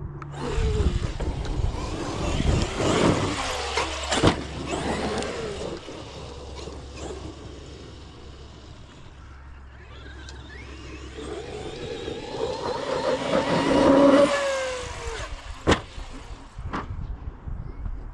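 Large electric RC monster truck on a dirt track: its motor whine rises and falls with bursts of tyre-on-dirt noise, and there are three sharp knocks from landings.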